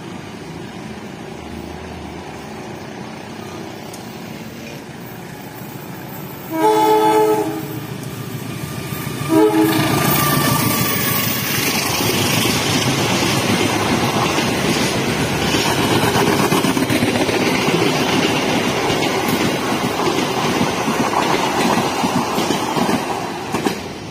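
CC 201 diesel-electric locomotive sounding its horn twice on approach, a blast of about a second and then a short one, followed by the locomotive and its passenger coaches passing close by, wheels running loudly over the rails.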